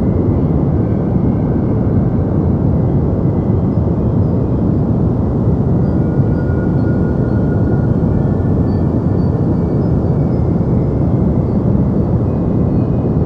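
Deep white noise for sleep: a continuous, even hiss weighted heavily toward the bass, with the treble rolled off so it sounds like a soft low hum, unchanging throughout.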